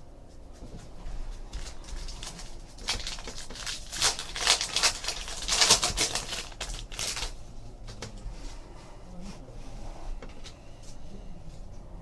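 Trading cards and foil pack wrappers being handled: light clicks and rustling, with a dense burst of crinkling in the middle lasting about four seconds.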